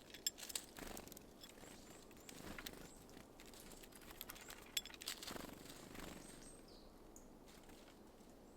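Small birds at a seed feeder: faint scattered taps and clicks with a few soft rustles, and a brief thin high chirp about six seconds in.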